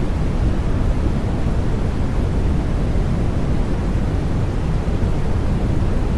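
Steady baby-sleep white noise: an even, unbroken rushing hiss, deep and weighted toward the low end, with no change in level.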